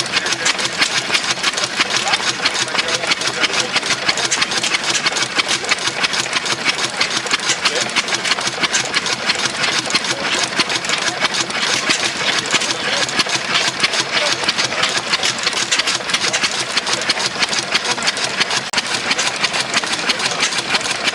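Old engine running steadily with a fast, even mechanical clatter.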